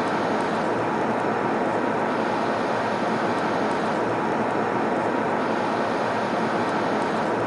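Airliner cabin noise in flight: a steady roar of engine and airflow noise with a faint hum, unchanging in level.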